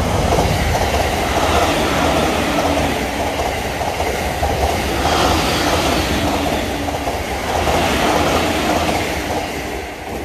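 Electric commuter train passing close by at high speed: a steady run of wheel-and-rail noise that eases off near the end as the train clears.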